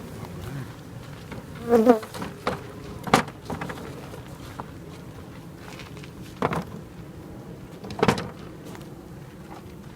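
Honeybees buzzing steadily around an opened hive, with a louder buzz that swells and bends in pitch briefly about two seconds in. Several sharp knocks come through the buzzing.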